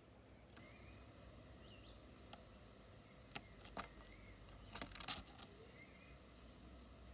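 Faint tropical forest ambience: a steady high-pitched insect hiss with a few faint short bird chirps and whistles. In the middle come several sharp clicks, a tight cluster of them about five seconds in.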